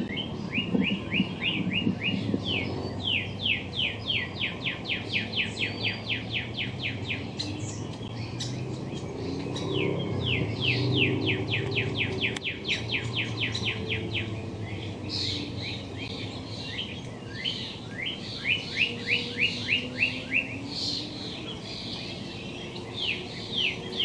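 A songbird singing long runs of short, quick falling notes, about five or six a second, each run lasting several seconds and repeated again and again. A steady low rumble sits underneath.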